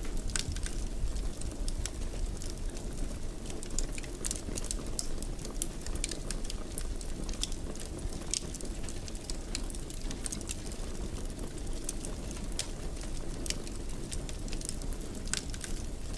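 Wood fire in a fireplace crackling: frequent irregular sharp pops and snaps over a steady low rumble of the burning fire.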